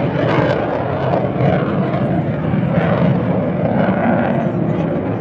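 F-35 Lightning II's F135 turbofan jet engine, heard as a loud, steady jet noise with a rough, churning texture that holds at about the same level throughout.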